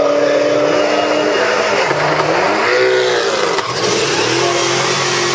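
Drag-racing street cars' engines at full throttle down the strip, a high steady note that drops away about a second in as they lift off past the finish. The pitch then rises and falls a few times, and about four seconds in a steadier, lower engine note takes over.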